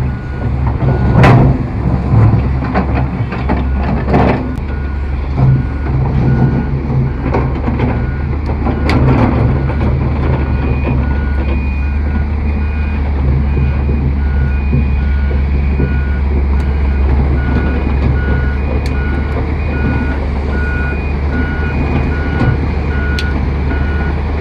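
Heavy diesel earth-moving machinery running with a steady low drone, with a reversing alarm beeping repeatedly from about five seconds in. Several metallic knocks come in the first half, the loudest about a second in.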